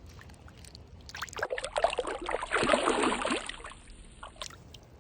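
Water splashing in a dense, choppy burst from about a second in, lasting about two seconds: a hooked fish thrashing at the surface after a topwater strike.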